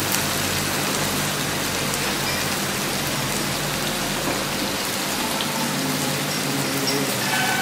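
Chicken pieces and onions frying in oil in an iron kadai, a steady, even sizzle with a low steady hum beneath it.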